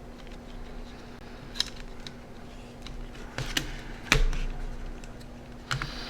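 Small plastic parts of a Sharp Zaurus SL-6000D handheld clicking and tapping as they are handled and pressed into place: about five sharp clicks, the loudest a little past the middle, over a faint steady hum.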